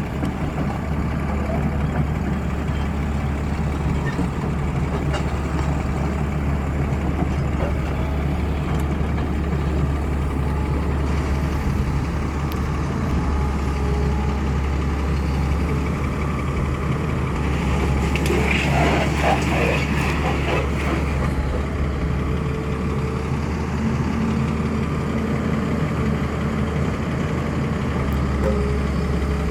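Heavy diesel machinery running steadily as a Hyundai excavator loads a truck trailer: a low, even engine drone. A brief higher-pitched sound rises over it about two-thirds of the way in.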